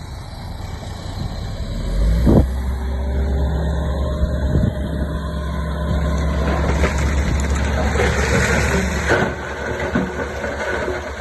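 Heavy diesel engine of an earthmoving machine working under load. It builds about two seconds in, runs steadily, and eases off near the end, with a couple of sharp knocks and a rattling noise over the second half.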